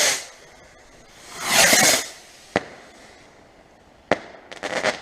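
Cheap consumer fireworks going off: two swelling whooshes about a second and a half apart, a sharp bang about two and a half seconds in and another near four seconds, then a quick burst of crackling near the end.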